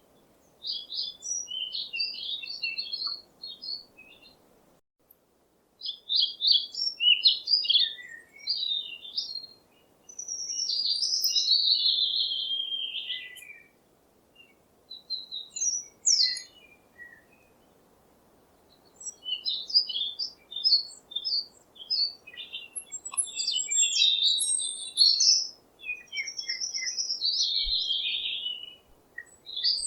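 Songbirds chirping and singing in bouts of quick, high twittering phrases, with short pauses between bouts and a faint steady hiss beneath.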